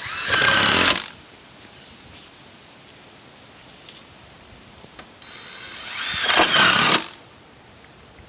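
Power drill driving screws through metal roof panels twice: a short burst right at the start and a longer one that builds from about five seconds in, each opening with a rising motor whine. A short click falls between them.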